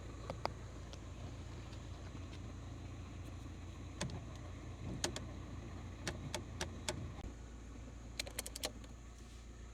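Citroën XM's engine idling, heard from inside the car, as a steady low hum that changes about seven seconds in. Scattered sharp clicks and knocks of cabin controls sound over it, with a quick run of about five clicks near the end.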